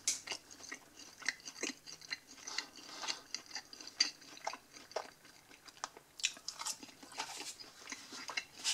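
A person chewing a mouthful of sauce-dipped pizza crust close up: many small irregular crunches and wet mouth clicks.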